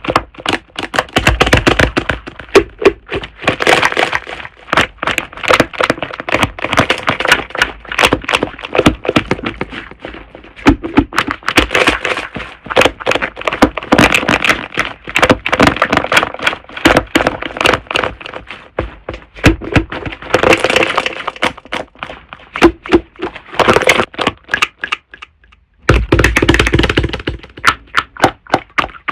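Slime being squished, pressed and poked by hand, making a dense run of sharp clicking and popping sounds, with a brief pause near the end.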